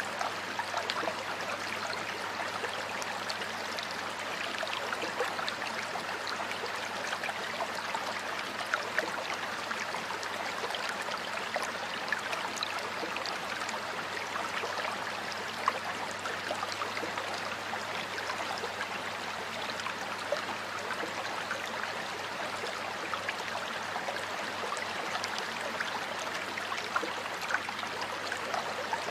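A stream flowing steadily over stones, a constant rush of water with many small splashes and trickles.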